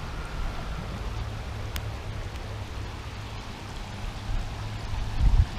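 Steady rush of flowing creek water, with a low rumble underneath and a few louder low thumps near the end.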